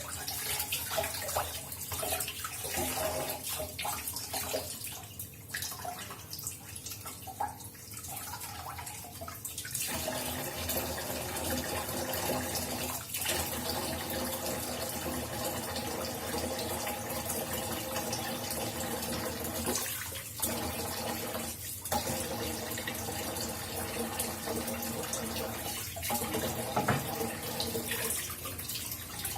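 Kitchen tap running into a sink, the water splashing as food is rinsed under it, with a few brief breaks in the flow.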